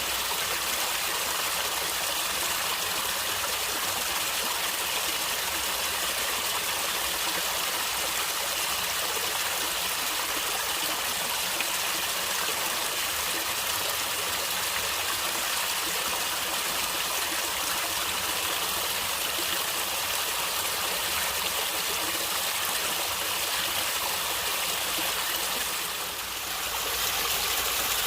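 Stream water flowing and gurgling steadily, with a brief slight dip in level near the end.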